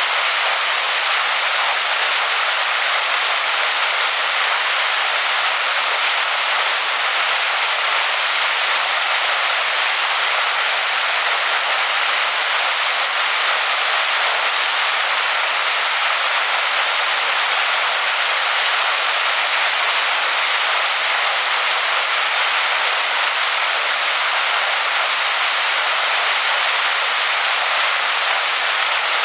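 Waterfall pouring onto rocks: a steady, unbroken rush of water, bright and hissy with almost no low rumble.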